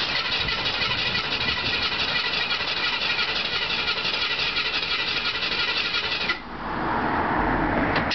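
Ford 5.0 EFI V8 turning over on a first-start attempt, with a fast, even beat, until it cuts off suddenly about six seconds in. A quieter rushing noise follows.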